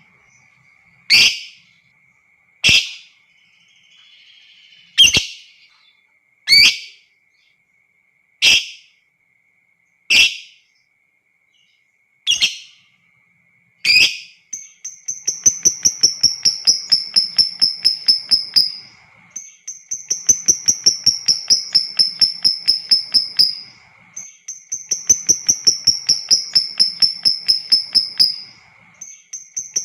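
Lovebird calling: sharp single shrieks about every one and a half to two seconds, then from about halfway, long rapid chattering trills of several seconds each, the long 'ngekek' trill of a lovebird, repeated four times.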